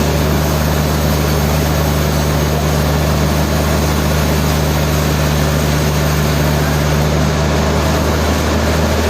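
Sawmill machinery running with a steady low hum and even mechanical noise, unchanged throughout.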